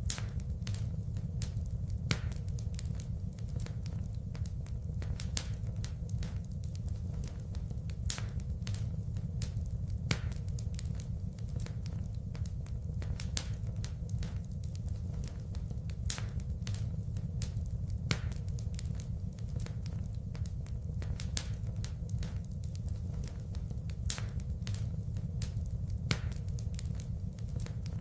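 Wood fire burning in a fireplace, crackling and popping with frequent irregular sharp snaps over a steady low rumble.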